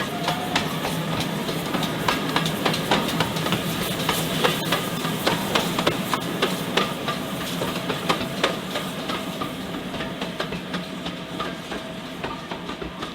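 A train running on the rails, its wheels clicking and clattering irregularly over a steady low rumble, growing gradually quieter over the last few seconds.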